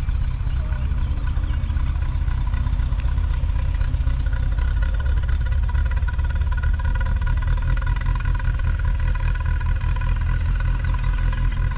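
A motor engine running steadily with an even, low hum and no changes in speed.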